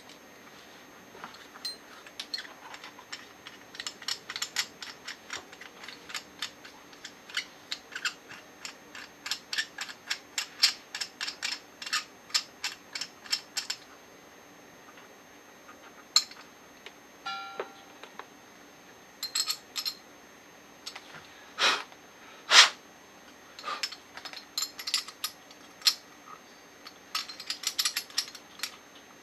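Tools and metal parts of a TUSA scuba regulator first stage being worked on during disassembly: long runs of quick metallic clicks like a ratchet turning, a brief squeak partway through, and two sharper knocks a little under a second apart.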